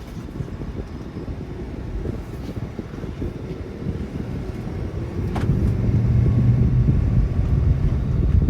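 The truck's 6.7-litre Cummins diesel engine running with a steady low rumble, which gets louder about six seconds in. A single sharp click comes shortly before that.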